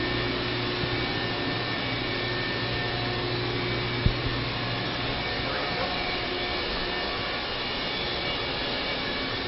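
Steady whooshing, fan-like noise with faint steady hum tones, and one short knock about four seconds in.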